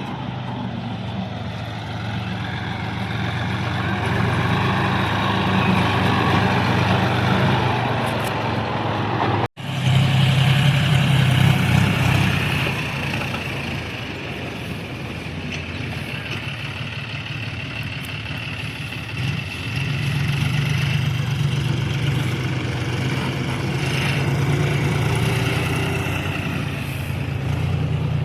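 Heavy diesel vehicle engine running steadily. The sound cuts out abruptly for an instant about nine and a half seconds in, then carries on.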